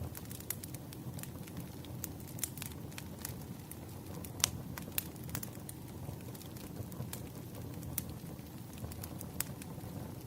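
Wood fire in a fireplace crackling: a steady low hiss of flames with scattered sharp pops, the loudest about four seconds in.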